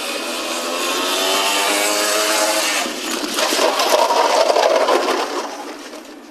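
Motorcycle engine running and rising slightly in pitch for about three seconds, then a louder rough rushing noise that fades away.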